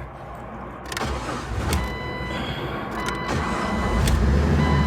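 2000 Jeep Wrangler engine running, its low rumble getting louder as it goes, with a short electronic beep repeating about once every second or so.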